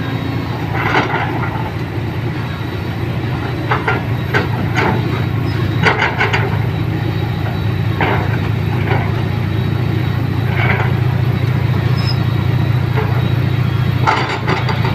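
A vehicle running steadily with a constant low drone, with short rattles and clunks at irregular intervals.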